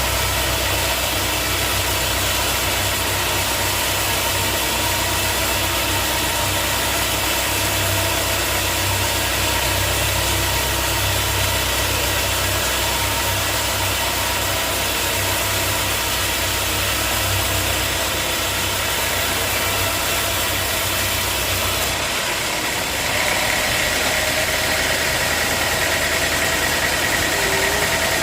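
Sawmill machinery running steadily with an engine-like hum. About 22 seconds in, the deep hum falls away and a higher whine takes over.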